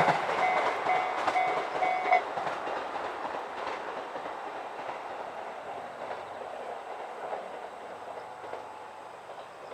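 A train running away from a level crossing, its wheel clatter over the rail joints fading steadily. For the first two seconds the crossing's electronic warning bell rings a few more times on two tones, about twice a second, then stops.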